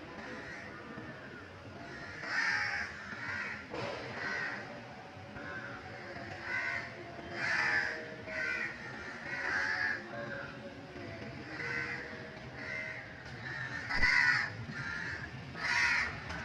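Birds calling over and over, about one call a second, some louder than others, with the loudest call about 14 seconds in.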